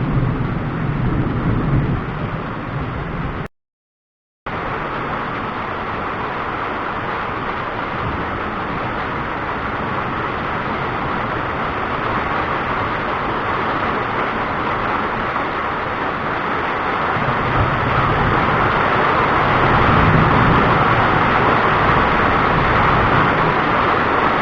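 Steady rushing background noise under low rumbles of distant thunder, which swell near the start and again about two-thirds of the way through. The sound cuts out completely for about a second a few seconds in.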